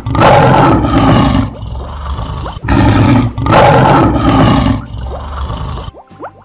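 Cartoon lion roar sound effect, twice: two long, rough roars, the first already under way at the start and the second beginning about two and a half seconds in.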